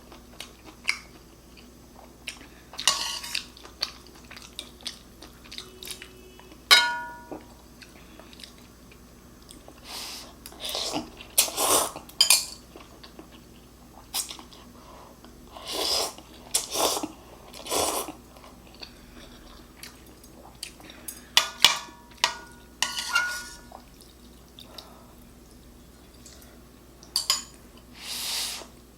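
Close-up eating of Shin ramen and fried bacon: scattered bursts of chewing and noodle slurping, with utensils clinking against the dish a few times.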